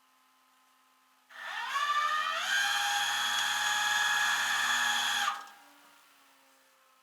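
A small electric motor spins up with a quick rising whine, holds a steady high pitch for about three seconds, then stops.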